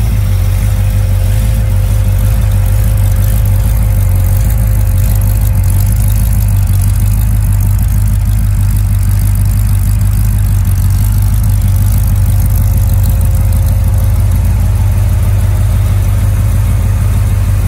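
Rebuilt 350 small-block Chevy V8 with an Edelbrock 650 cfm carburetor and a full roller camshaft, idling steadily on an engine run stand and exhausting through a pair of short mufflers.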